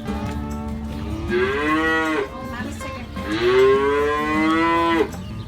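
Cow mooing twice in long drawn-out calls, the second louder than the first.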